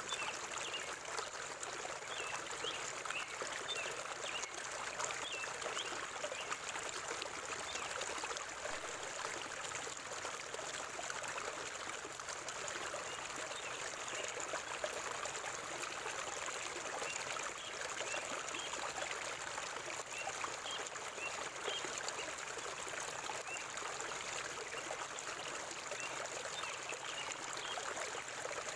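River water flowing steadily through a forest, a continuous even rush of moving water.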